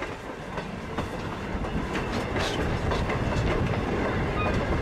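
Steam locomotive hauling passenger coaches past a railway crossing: steady train noise of wheels on the rails, a low rumble that grows slowly louder as the train comes by.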